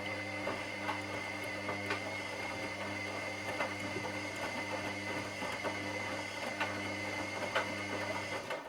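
Washing machine motor turning the drum in a wash cycle: a steady hum with a high whine and scattered light knocks, cutting off near the end as the drum stops between turns.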